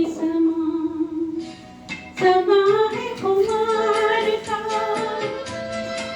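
A woman singing a Hindi film song. She holds one long note, breaks off briefly about two seconds in, then carries on with a moving melody.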